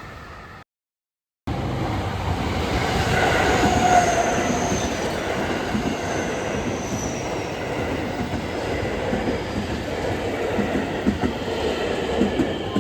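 A train running along the rails close by, with a faint high squeal of steel wheels sliding in pitch partway through and a few rail-joint clacks near the end. The sound breaks off into silence about half a second in and starts again abruptly a second later.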